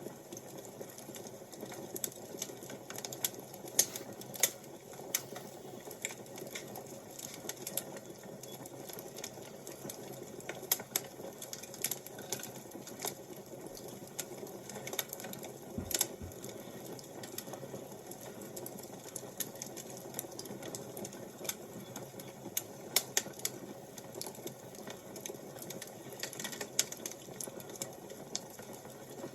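Wood fire crackling: irregular pops and snaps, some much louder than others, over a steady low rush of burning.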